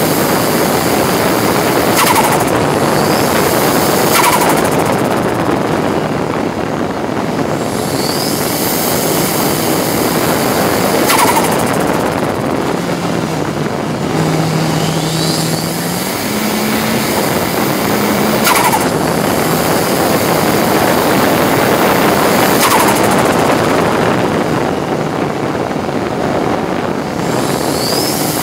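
Ford Sierra RS Cosworth race car's turbocharged four-cylinder engine running hard under racing load, heard from inside the stripped-out cabin. The revs fall and rise through the lap, with several sharp cracks spread across it.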